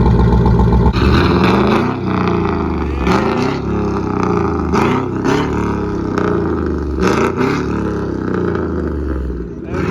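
Truck engines revving, the pitch rising and falling again and again, after a steady low running note in the first second.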